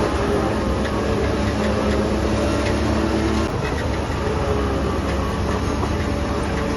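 Heavy diesel earthmoving machinery running steadily. Its engine note changes about three and a half seconds in.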